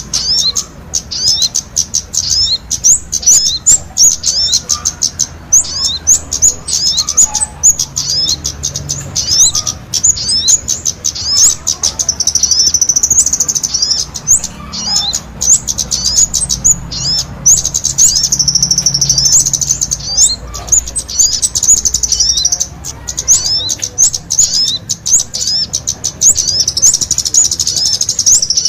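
Kemade and sogon songbirds singing together in full voice: rapid, high-pitched chirps and twitters, with long ringing trills about twelve, seventeen and twenty-six seconds in.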